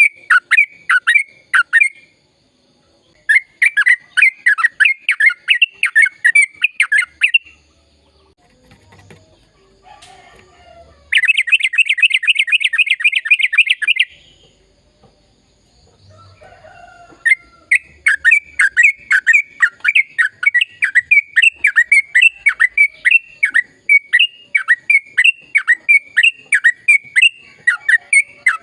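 Sooty-headed bulbul (trucukan) singing in long, rapid runs of repeated sharp notes, in several bursts with short pauses between. A faster, denser run comes about eleven seconds in, and a long unbroken run starts about seventeen seconds in.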